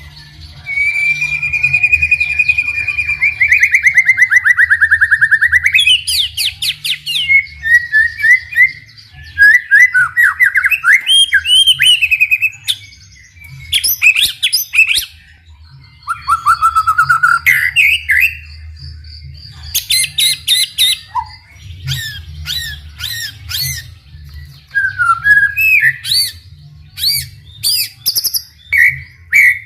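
White-rumped shama singing a long, varied song: a long falling trilled whistle near the start, then quick whistled phrases, rising and falling glides and sharp clicking chatter notes, over a steady low hum.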